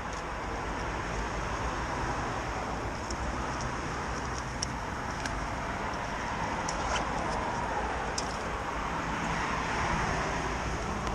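Steady road and wind noise from a motorcycle on the move, with a vehicle's engine sound swelling and fading a few seconds in.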